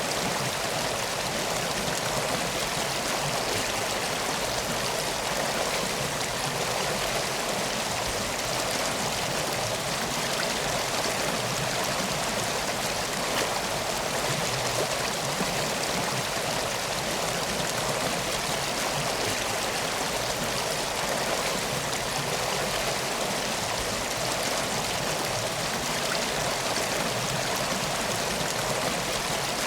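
River water flowing steadily: a continuous, even rush with no pauses.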